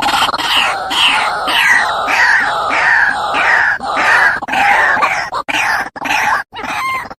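White-breasted waterhen (ruak-ruak) calling: a loud, harsh note repeated about twice a second, each note sliding down in pitch. The calls break up into shorter, choppier notes near the end.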